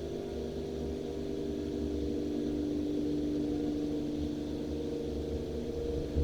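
Christ Auto-Jet C115 touchless car wash running, heard from inside the car's cabin: a steady machine hum with a low rumble underneath.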